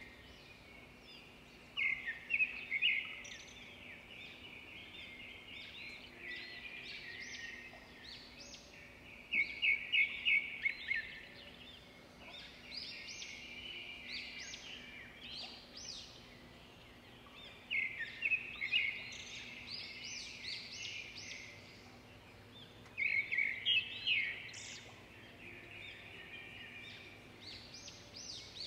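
Songbirds chirping and trilling in quick, high bursts that come and go every few seconds, over a faint steady low hum.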